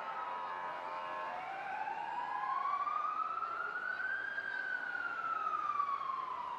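A siren wailing: one slow rise in pitch over about three seconds, then a slow fall, with a few steady tones alongside it in the first second or so.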